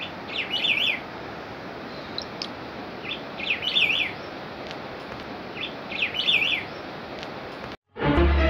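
A songbird sings the same short, quick, twittering phrase three times, a few seconds apart, over a steady rushing hiss. Near the end the sound cuts off and music starts.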